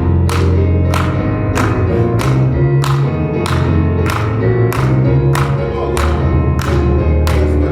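Gospel music from a church band: a steady beat of drum hits, about one and a half a second, over held bass notes and chords.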